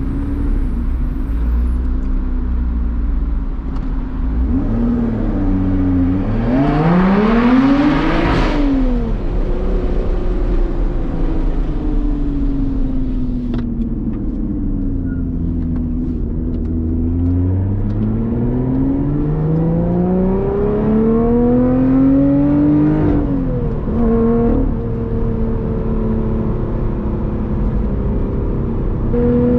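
Lotus Evora GT's supercharged 3.5-litre V6 with a titanium exhaust, accelerating hard: the revs climb steeply to a loud peak about eight seconds in, then drop. A second, longer pull through the revs from about halfway ends in another drop in pitch, an upshift, near the end.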